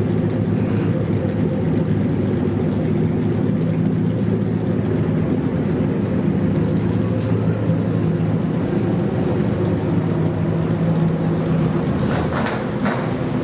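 Customised kaido racer car's engine idling steadily with a deep, even rumble. Near the end come a few short sharp crackles.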